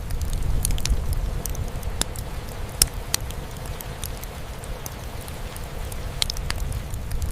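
Steady rain drumming on a roof with a wood fire crackling: a low continuous rumble under scattered sharp pops and snaps, the loudest pop a little under three seconds in.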